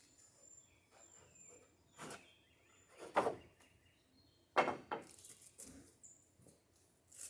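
Wooden boards knocking and scraping as they are shifted in a lumber pile, in a few short bursts, the loudest about three seconds in and again about four and a half seconds in. Faint bird chirps in the background.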